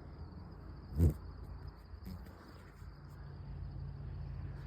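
An insect's steady high-pitched trill, like a cricket, with a low outdoor rumble beneath it and one brief, louder low sound about a second in.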